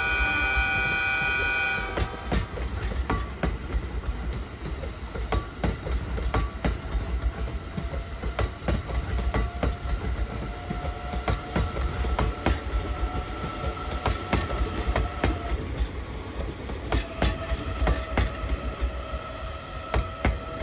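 E001 series Train Suite Shiki-shima passing: its horn sounds a steady chord that cuts off about two seconds in. Then come the irregular clacking of wheels on the rails and a low rumble as the cars roll by.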